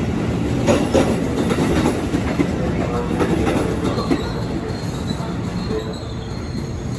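Train running through the station: wheels clicking over rail joints with a steady rumble that slowly fades, and a thin, high wheel squeal setting in about four seconds in.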